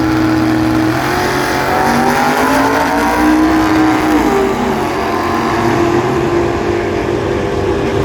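Drag-racing cars, a Rambler against a Chevy, accelerating hard down the strip. The engine pitch climbs and drops at gear shifts about one and four seconds in.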